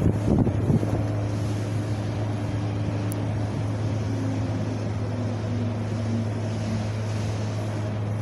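Wind blowing steadily with a deep, even low rumble, and a few stronger gusts about a second in.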